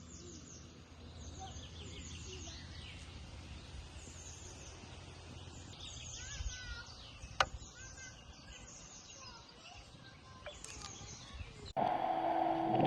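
Small birds chirping repeatedly over a low steady rumble of outdoor ambience, with one sharp click about seven seconds in. Music with sustained tones starts near the end.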